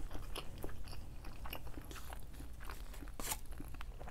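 Close-miked chewing of a mouthful of shrimp pasta, with many short wet mouth clicks and smacks and one louder click about three seconds in.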